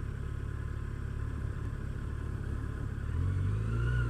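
Yamaha FJR1300 motorcycle's inline-four engine idling steadily at a stop. A louder low engine hum rises about three seconds in.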